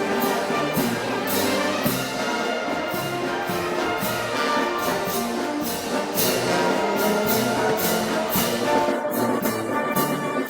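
Brass band playing Moros y Cristianos festival music, full brass with cymbal or drum strikes on a steady beat of about two a second.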